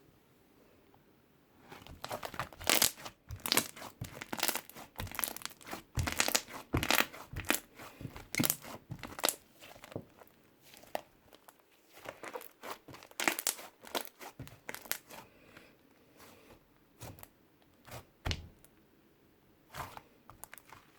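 Crumbly, dry 'cement' material being squeezed and crushed by hand close to the microphone. A dense run of crackling crunches starts about two seconds in and thins out to occasional crunches in the last few seconds.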